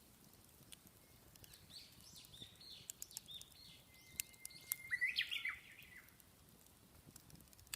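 A songbird chirping and singing, a quick run of short high notes that grows busiest about five seconds in, with a few sharp clicks in between.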